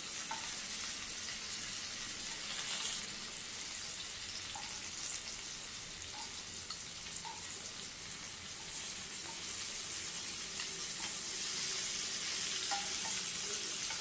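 Rice-flour-coated drumstick pieces shallow-frying in oil on a low flame: a steady sizzle, with a few faint clicks as the pieces are turned over with tongs.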